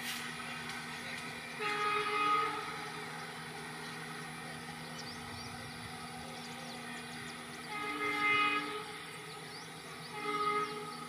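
Locomotive horn sounding three separate blasts, about 2, 8 and 10 seconds in, the last the shortest, over a steady low hum.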